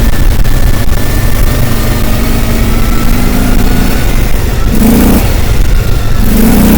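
A motor vehicle running, a steady loud low rumble of engine and road noise, with a brief voice near the end.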